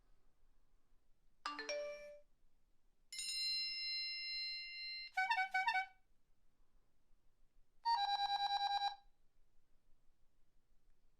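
A run of electronic phone alert and ring tones. A short chime comes first, then a held bell-like ringing tone, then a quick run of about five short beeps, and then a fast pulsing ring lasting about a second.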